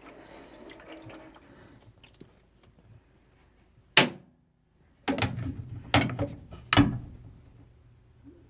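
Washing machine on a test fill: faint water running into it, then a sharp click about four seconds in. From about five seconds a steady low hum starts, broken by several loud knocks and clunks.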